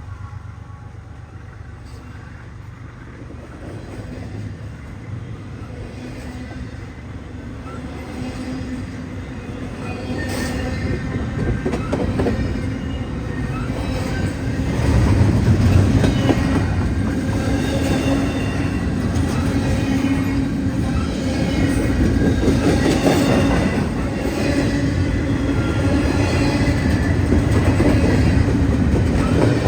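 A train drawing closer, its low rumble growing steadily louder for about fifteen seconds, then passing close with rolling wheels clattering on the rails.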